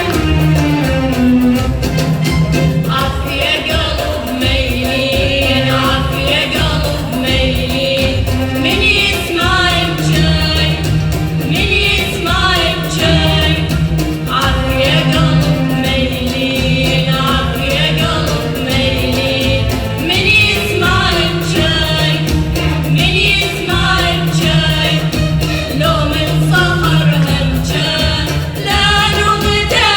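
Live music: sung phrases with vibrato, repeated line after line, over a steady low instrumental accompaniment.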